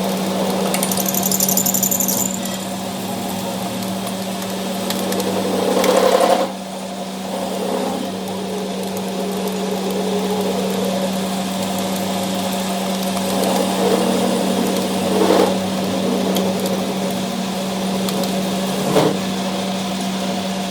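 A machine running with a steady hum, with mechanical rattling over it and a few louder knocks or surges: the loudest about six seconds in, others near fifteen and nineteen seconds.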